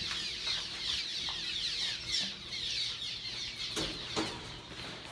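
A flock of small birds giving alarm calls, many quick falling chirps overlapping without a break. Two knocks about four seconds in.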